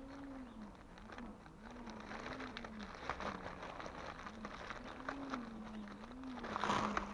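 A fly buzzing close by, its drone wavering up and down in pitch as it moves about, over scattered crackling and rustling, with a louder rustle near the end.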